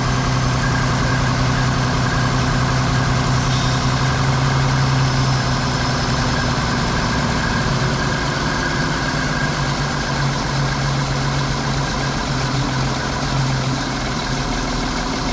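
Engine of a 1954 '300' car idling steadily while warming up after a cold start, with an even low hum.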